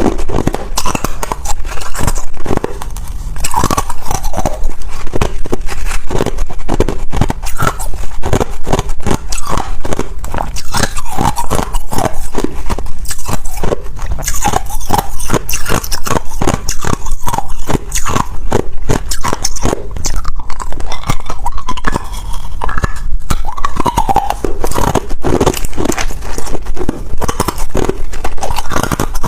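A person biting and chewing ice, a dense run of loud, sharp cracking crunches with short pauses between bites.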